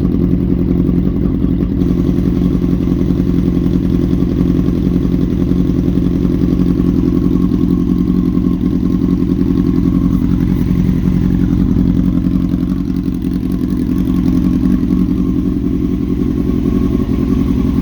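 A 2001 Honda CBR929RR's inline-four engine running steadily, just started after an oil change.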